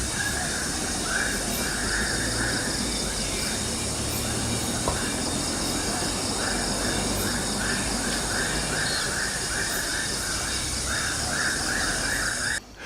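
A bird calling in runs of short repeated notes, a few per second, over a steady high hiss of forest background, which cuts off abruptly near the end.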